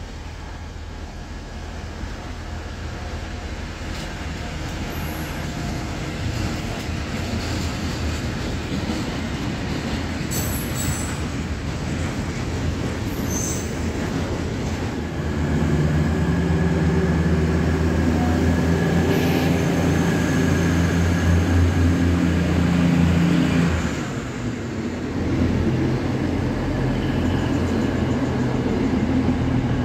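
A long freight train of tank wagons hauled by an electric locomotive rolls through, wheels rumbling over the rails, with a few brief high squeals. About halfway in it gets louder with a steady low hum as a passenger train runs past close by.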